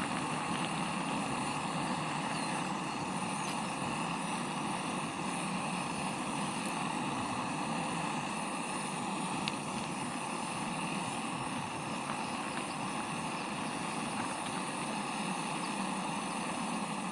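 Steady, even outdoor rushing noise with several faint steady high tones above it, unchanging throughout.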